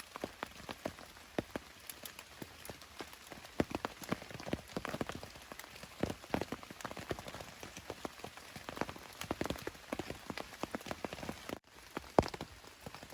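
Steady rain with many separate heavy drops striking close by, as on a tarp overhead. The sound drops out for a moment near the end.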